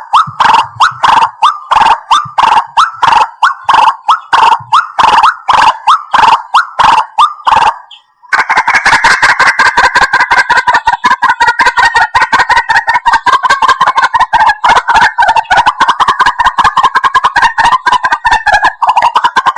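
White-breasted waterhen calling: repeated loud notes at about three a second, then, after a brief break about eight seconds in, a faster, denser run of notes.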